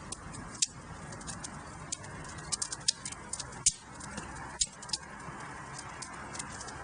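Wood fire burning in a fireplace: a steady low rush of flames with frequent sharp crackles and pops, a handful of them louder than the rest.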